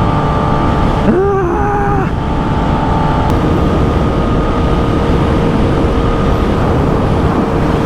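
Motorcycle engine running at speed over a rushing wind noise from the ride. The engine note changes pitch about a second in and drops to a lower steady tone about three seconds in.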